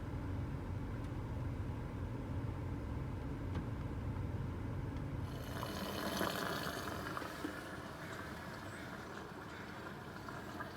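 Low rumble of a Toyota 4Runner driving on the road, heard from inside the cabin. About halfway through the rumble drops away and a steady hiss with light crackling takes over.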